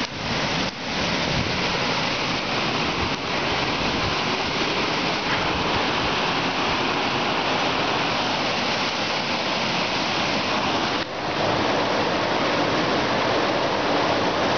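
River water rushing steadily, an even hiss of moving current, dipping briefly about a second in and again near eleven seconds.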